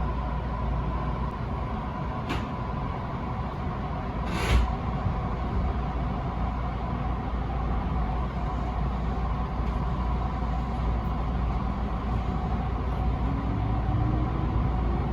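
Electric passenger train running, heard from on board: a steady low rumble with a brief sharp burst of noise about four seconds in, and a faint rising whine near the end.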